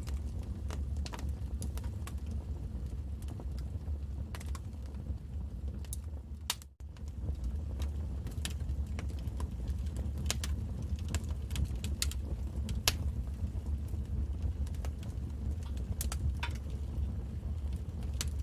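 Wood fire in a fireplace crackling: irregular sharp pops and snaps over a steady low rumble. The sound drops out briefly about seven seconds in.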